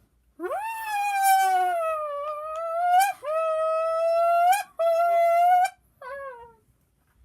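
A high-pitched voice imitating a Lamborghini engine revving through its gears: three long held tones, each climbing and ending in a quick upward flick before breaking off, then a short falling one near the end.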